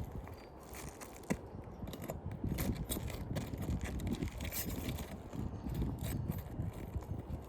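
Light scraping and scattered small clicks from handling roof shingles, with one sharper click about a second in.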